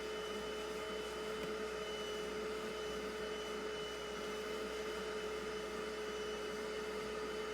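Bissell Little Green portable carpet extractor running steadily, its suction motor giving a constant whine over a rushing hiss as it extracts a truck seat's upholstery.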